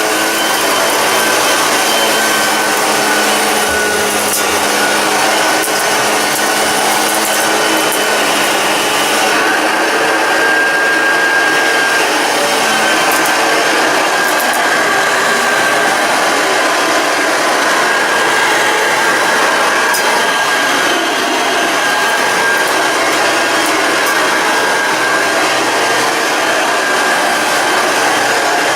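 1973 Hoover Junior 1354A upright vacuum cleaner running steadily on its test trial, freshly serviced with a new belt and a cleaned, oiled brush bar: a loud rushing noise with a steady high whine over it.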